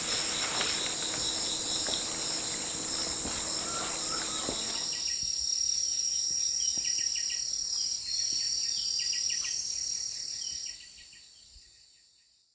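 Insect chorus in forest, a steady high-pitched shrilling with pulsed chirping trills over it, and scattered small knocks in the first few seconds. It fades out near the end.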